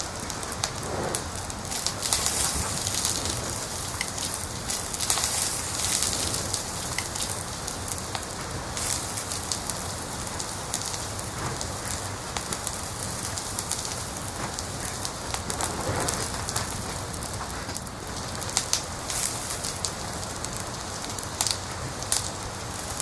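Wood fire in a fireplace crackling over a steady hiss, with many sharp pops that come in denser bursts about two seconds in, around five to six seconds, and again near the end.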